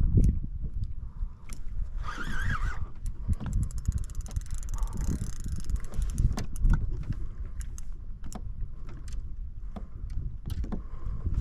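Low rumble of wind and water around a kayak, with scattered clicks and a run of rapid clicking from about 2 to 6 s, from a spinning reel being worked during a long fight with a heavy fish.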